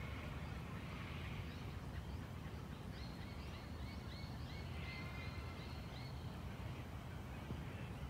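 A bird calling in the gum forest: a quick run of about nine short, repeated notes, about three seconds in until about six seconds, over a steady low rumble of outdoor background noise.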